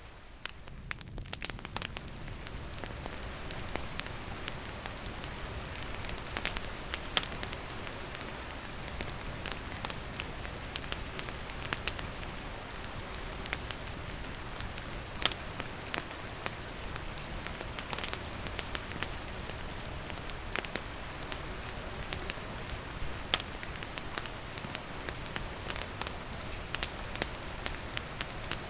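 Campfire crackling, with frequent sharp pops of burning wood over the steady hiss of rain falling.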